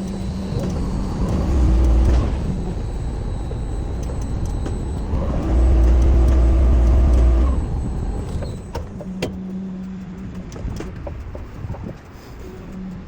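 Heavy machinery running with a steady low rumble. It swells twice into louder low surges, about a second and a half in and again from about five and a half to seven and a half seconds, with a faint high whine over it. Scattered clicks follow in the later part.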